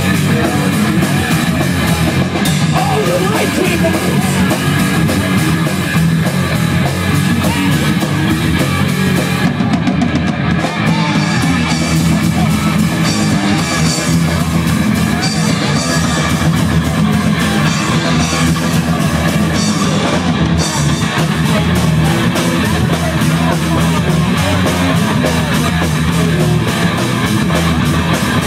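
Punk band playing live, with loud distorted electric guitar and a drum kit pounding steadily, recorded on a handheld camera's microphone.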